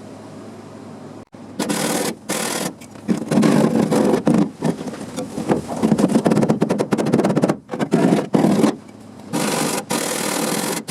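Sheet-metal body panel being stitch-welded, crackling in short runs with brief pauses between them, starting about a second and a half in.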